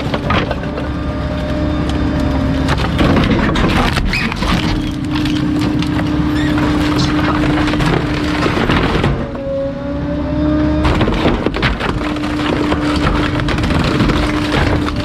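Bulky-waste garbage truck's hydraulic compactor humming steadily while crushing junk, with irregular cracking and splintering as items break under the packer. The hum drops out for about two seconds near the middle, where a short rising whine is heard.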